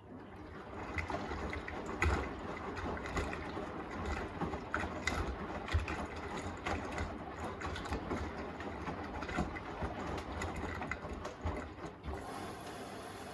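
Beko WTK104121A washing machine drum turning a wet load, with irregular clunks and knocks. About twelve seconds in the tumbling stops and a steady hiss is left.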